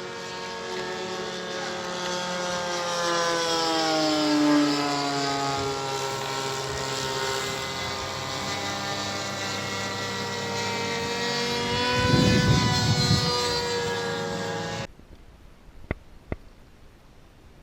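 Single-cylinder 35cc DLE petrol engine of a radio-controlled Sea Fury model plane in flight, its pitch sliding up and down as it passes and the throttle changes. A rumble of wind on the microphone comes in about twelve seconds in. The engine sound cuts off suddenly near the end, leaving quiet with two faint clicks.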